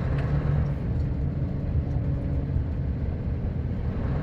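Sanding truck driving on a winter road: a steady, low engine and road rumble.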